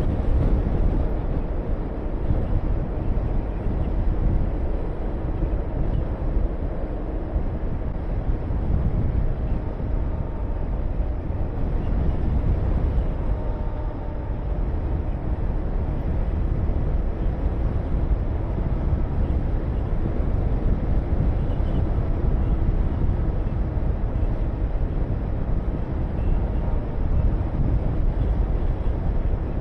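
Honda VTR250's V-twin engine running at a steady cruise under a heavy rush of wind on the microphone.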